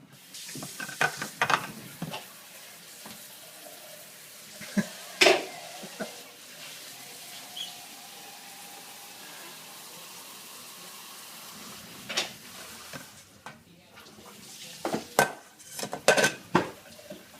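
Dishes and cutlery clinking and clattering as they are loaded into a dishwasher, in scattered sharp knocks that come thickest near the end. Between them there is a steady hiss.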